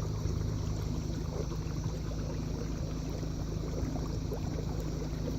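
Kayak moving across calm water: small trickling and lapping sounds along the hull over a steady low hum.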